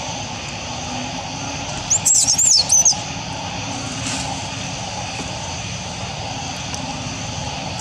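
Quick, very high swooping chirps, likely a bird's call, about two seconds in and lasting about a second, over a steady outdoor background hum.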